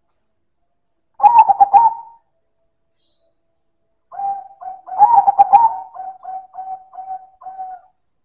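Silver zebra dove (perkutut) singing loudly: a short warbling phrase about a second in, then a longer phrase past the middle that trails off into a string of short, evenly spaced coos.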